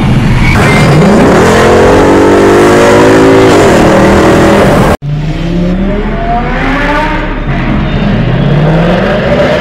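Ford Mustang GT's 5.0-litre V8 through a Borla ATAK exhaust, revving hard with its pitch rising and held high for a few seconds. After an abrupt cut about halfway through, it accelerates again, climbing in pitch several times in a row.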